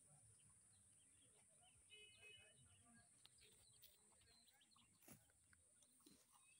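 Near silence: faint outdoor ambience with scattered bird chirps and a steady high hiss, and a single faint click about five seconds in.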